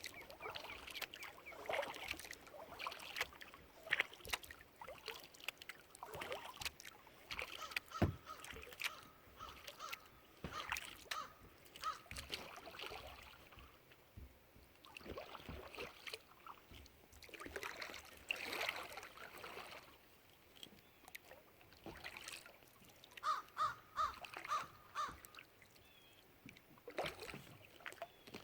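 Kayak paddle strokes dipping and splashing in the water every couple of seconds, with drips between strokes. A bird calls twice: a drawn-out note about a third of the way in, and a quick run of about five notes later on.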